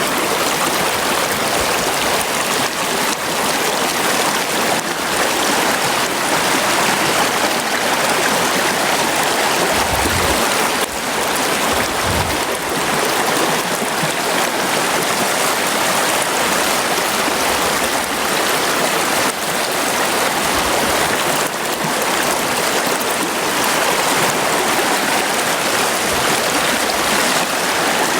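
River water rushing steadily over rocks, a constant loud hiss, with a couple of brief low thumps about ten and twelve seconds in.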